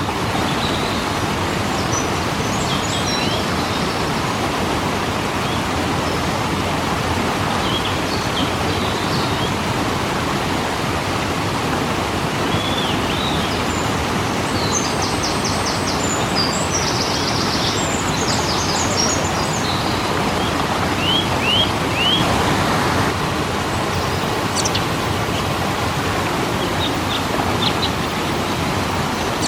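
Steady, even rush of a waterfall, with small birds chirping now and then over it, most around the middle and a little before two-thirds of the way in.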